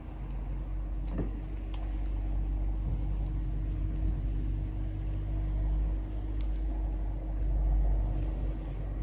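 A low, vehicle-like rumble that swells to its loudest near the end, with a steady hum and a few faint high ticks above it.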